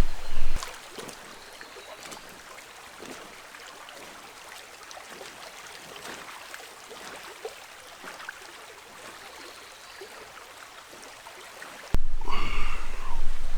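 Shallow jungle stream trickling, with small irregular splashes and clicks. About a second from the end it cuts suddenly to a louder rumble of wind on the microphone and a short pitched call.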